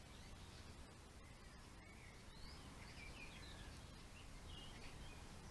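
Faint garden birds chirping: a few short, scattered calls from about two seconds in, over quiet steady background noise.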